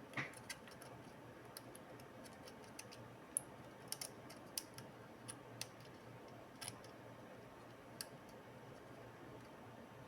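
Faint, irregular light clicks and ticks of small hard parts being handled, over a faint steady low hum.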